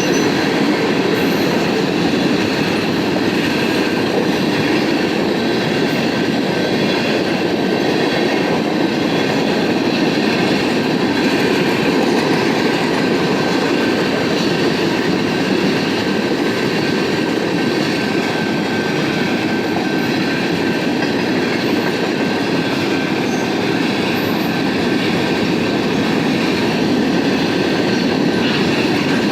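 BNSF freight train rolling past steadily, its car wheels running on the rails, with a faint thin ringing above the rumble.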